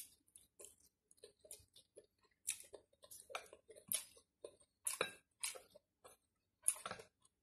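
Close-up mouth sounds of a person slurping and chewing stir-fried noodles: faint, irregular wet clicks and smacks of the lips and tongue.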